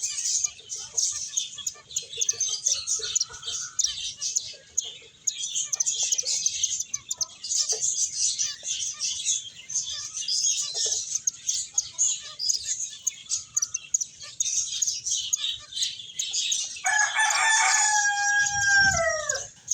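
Small pet finches chirping rapidly and continuously with high, twittering calls. Near the end, a louder, lower call is drawn out for about two and a half seconds and falls in pitch as it ends.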